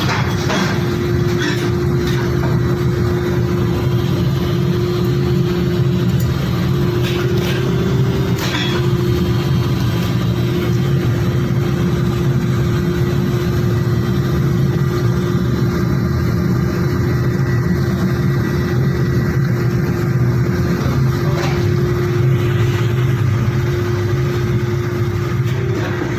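Factory machinery running with a steady hum and one constant mid-pitched tone, with a few sharp clicks about seven to nine seconds in.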